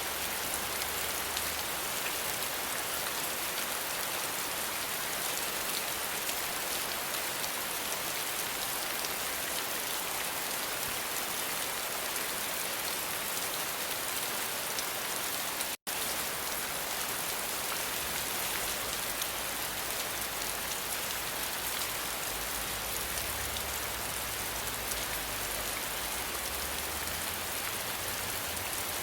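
Steady, dense rainfall hissing evenly, with a split-second dropout to silence just past the midpoint.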